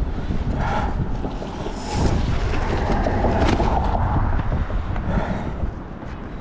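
Wind buffeting the microphone with a heavy low rumble, louder in the middle, and a few short knocks or scrapes.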